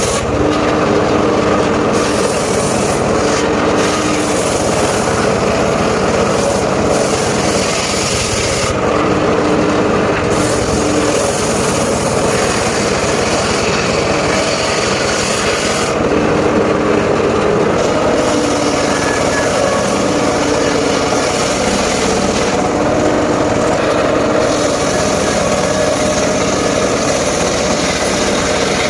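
Mobile circular sawmill running and cutting timber: a loud, steady mix of machine drone and blade-on-wood noise, with a low hum that comes and goes every few seconds.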